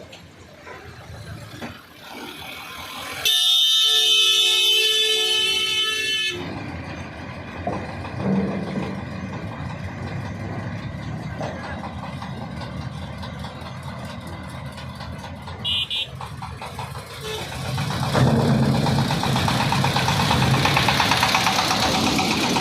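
A vehicle horn blares for about three seconds, over the steady running of heavy vehicle engines, which grow louder near the end.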